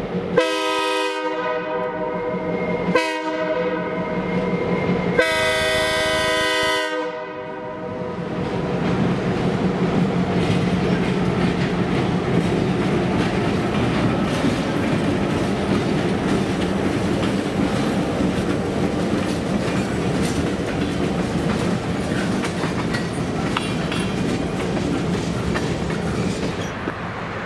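Diesel locomotive horn sounding the grade-crossing signal: a long blast, a short blast, then a final long blast. It is followed by the locomotives' diesel engines rumbling and steel wheels clattering over the rails as the train passes close by.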